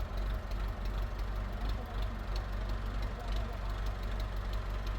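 A steady low mechanical rumble, like an engine idling, with a fast, regular ticking over it.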